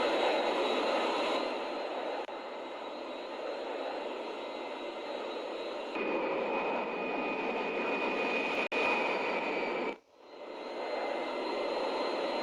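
Aircraft engine noise: a steady rush with a faint high whine. It changes level abruptly several times and drops out briefly about ten seconds in before fading back.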